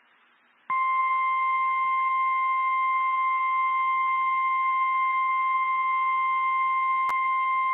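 NOAA Weather Radio 1050 Hz warning alarm tone: one steady, loud, high electronic tone that starts less than a second in after a moment of near silence and holds without change, with a single sharp click near the end. The tone signals that a warning message is about to be broadcast.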